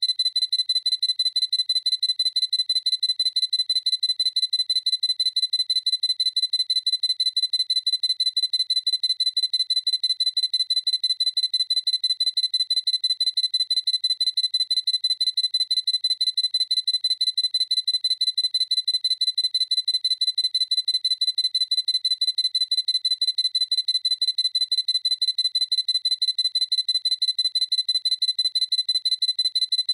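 Sony A7C focus-confirmation beep: a high electronic beep repeating evenly and rapidly, several times a second, without a break.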